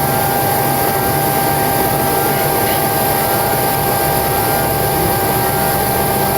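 Boeing 727-200's number 2 (centre) Pratt & Whitney JT8D turbofan spooling up partway through its start, heard from inside the cockpit. It is a steady rush of engine and air noise, with a constant whine and fainter whining tones that rise slowly.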